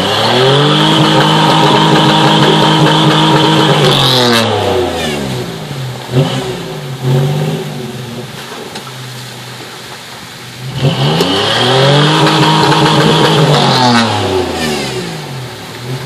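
A vehicle engine revved hard twice: each time the revs climb over about a second, hold high for a few seconds with a high steady whine alongside, then drop back.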